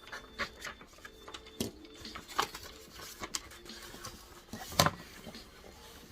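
Irregular small knocks, clicks and rustles of someone handling things while studying at a desk, with the loudest knock about five seconds in.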